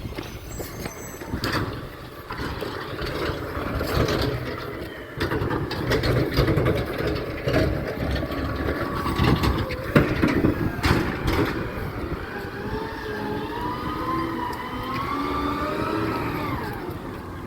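Garbage truck working: its diesel engine runs with a steady rumble, sharp metallic clanks and bangs sound several times, and in the last few seconds a wavering whine rises and falls.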